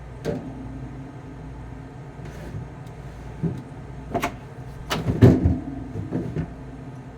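A few separate knocks and clunks of containers and bottles being handled and moved in an open refrigerator, with the loudest cluster about five seconds in.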